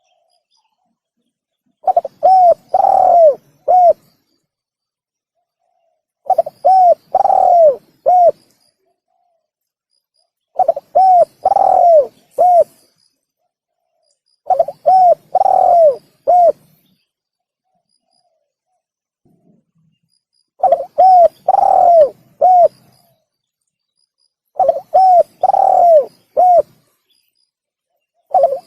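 Spotted dove cooing: six repeated phrases, each a quick run of about five coos with a longer, falling coo in the middle, separated by a few seconds of silence. It is a looped dove lure call of the kind used to draw in wild doves.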